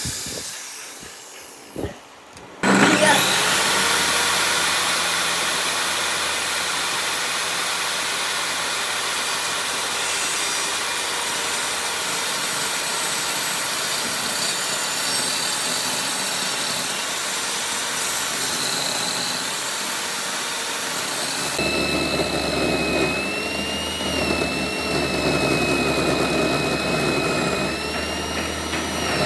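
An electric power tool dies away and stops, with a click. About three seconds in it is switched on again and runs with a steady high whine. Some twenty seconds in the sound turns rougher and fuller, with a wavering pitch, as the tool's load changes.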